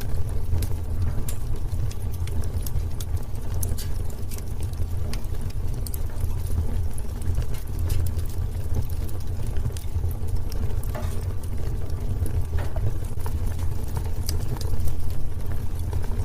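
Wood fire burning in a fireplace: a steady low rumble of the flames with many sharp, irregular crackles and pops from the burning wood.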